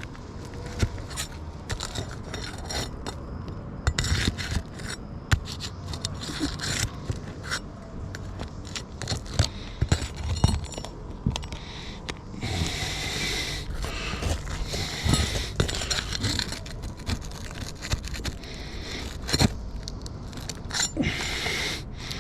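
Roof shingles being lifted and worked by hand: scraping and rasping, with many scattered sharp clicks and clinks. Two longer stretches of scraping about halfway through.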